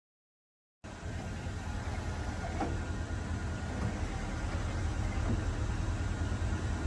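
Steady low rumble of a car on the move, engine and road noise, cutting in suddenly about a second in after silence.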